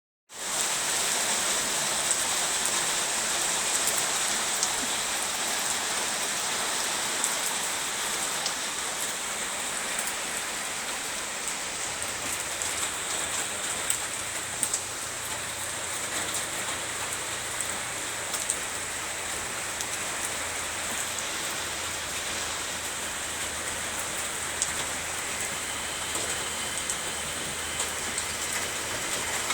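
Rain falling steadily on a tin roof overhead: an even hiss with scattered sharper ticks of single drops striking the metal.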